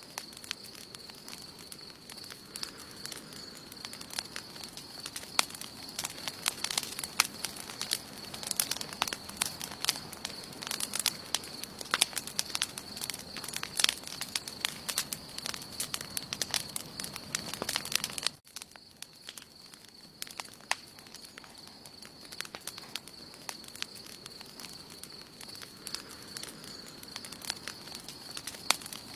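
Wood campfire burning, crackling with frequent sharp pops over a steady hiss, with a steady high-pitched tone running underneath. About eighteen seconds in, the sound drops out for a moment and returns with quieter, sparser crackling.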